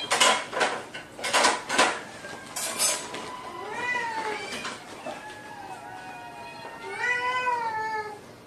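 Domestic cat meowing several times, with drawn-out calls that rise and fall, the loudest near the end. They come after about five short, noisy rustling or clattering bursts in the first few seconds.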